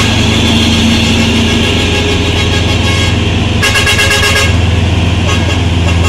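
Heavy diesel truck engines running steadily under load as loaded tanker trucks pull up a steep climb, with a short rasping burst, horn-like, about three and a half seconds in.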